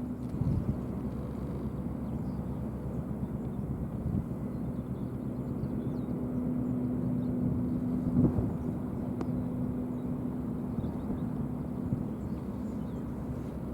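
Low, steady drone of a cross-Channel ferry's engines running, with a steady hum that grows louder about halfway through.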